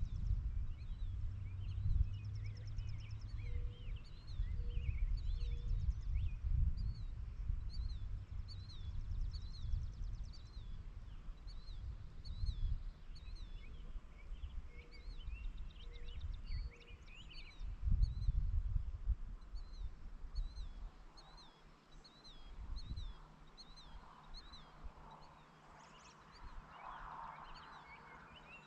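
Outdoor ambience of many small birds chirping and singing over a fluctuating low rumble of wind on the microphone. The wind dies down about two-thirds through, leaving the birdsong and some fainter mid-pitched calling near the end.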